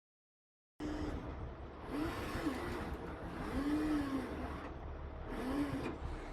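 Heavy truck running on the road: a steady low engine rumble that starts suddenly about a second in, with a pitched tone rising and falling several times over it.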